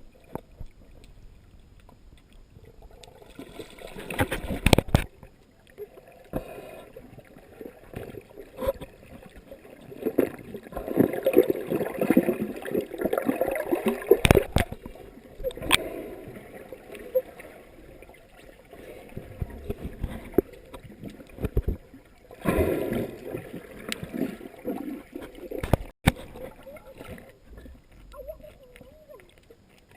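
Water splashing and gurgling around swimmers, coming in irregular bursts with a few sharp knocks.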